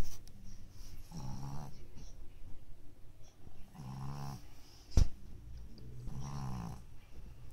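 A four-month-old pug puppy snoring in its sleep: three snores, about two and a half seconds apart. A single sharp click comes about five seconds in.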